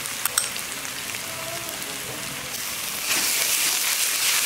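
Onion, ginger and chilli pastes frying in hot oil in a pan. A steady sizzle gets louder about three seconds in, with a couple of sharp clicks near the start.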